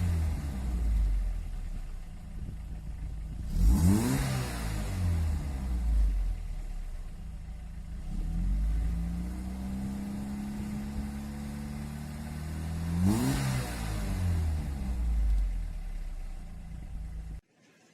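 Audi 100 C3 1.8 inline-four's exhaust, with a Stronger flame arrestor and the factory rear muffler, idling and being revved. There is a quick blip about four seconds in, a slower rise held for a few seconds, and another blip, then it settles back to idle before cutting off suddenly near the end.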